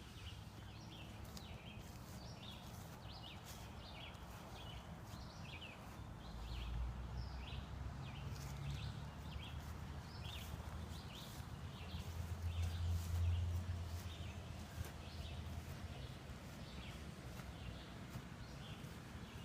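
Small birds chirping, many short high chirps in an irregular stream, over a low rumble that swells twice, about six and twelve seconds in.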